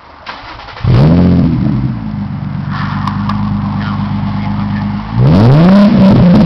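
Nissan 350Z's 3.5-litre V6 running through a custom single exhaust: it is blipped up about a second in, settles to a steady idle, then is revved again near the end.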